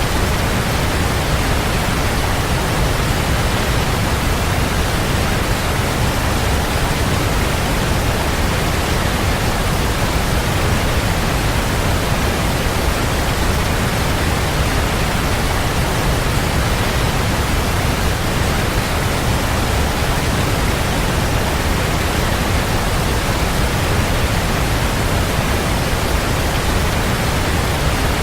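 Waterfall: a steady, even rush of falling water, full and deep, without change.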